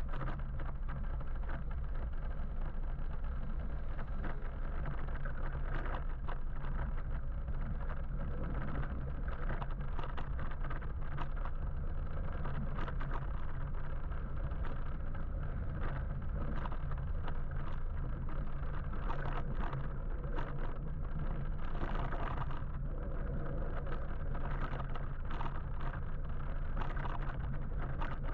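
Road noise from riding an electric motorbike in city traffic: a steady rush of wind and tyres over a low hum, with frequent short clicks and knocks throughout.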